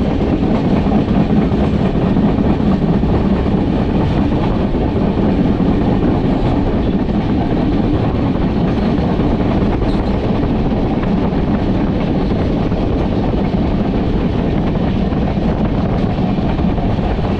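Mandovi Express passenger train running along the track: a steady, loud rumble of wheels on the rails.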